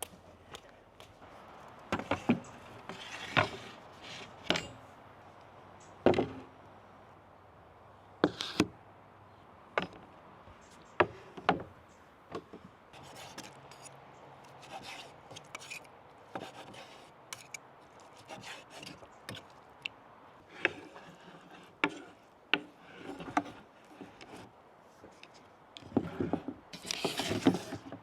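Irregular knocks, taps and scrapes of a knife and utensils on a wooden cutting board as food is cut and handled, with the loudest knocks near the start, around six and eight seconds in, and a busy cluster near the end.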